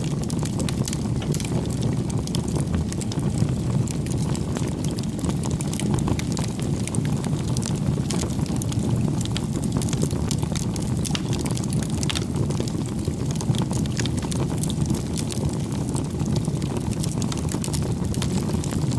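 Wood fire burning, with a steady low rush of flames and frequent small crackles and pops from the burning wood.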